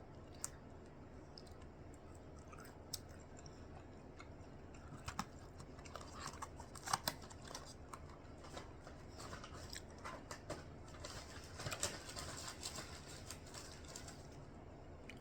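Faint chewing of crispy breaded chicken fries, with scattered small crunches and clicks, two close together about seven seconds in and a denser run of crackling near the end.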